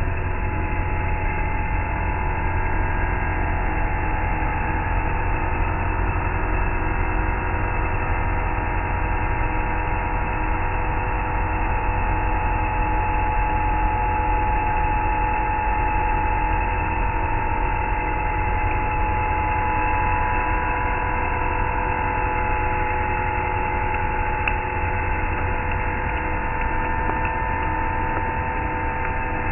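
CNC bridge mill running through a milling pass on a plasma table frame: a steady machine hum with a slightly wavering whine over it.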